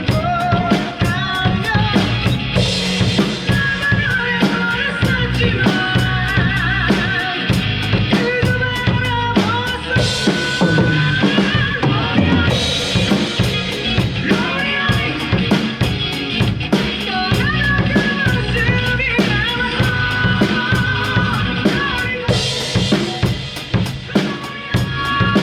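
Drum kit played in a steady beat along to a recorded rock song, the drum hits sitting over the song's guitar and wavering melody line.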